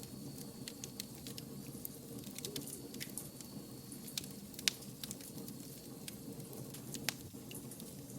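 Wood fire crackling: a steady low rumble of burning logs with frequent small snaps and pops, two of them sharper, about halfway through and near the end. A faint thin high whistle sounds through the first few seconds and fades.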